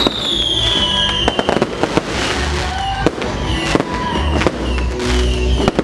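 Fireworks going off in a rapid string of crackling pops, with a falling whistle at the start. Music with a heavy low beat plays underneath.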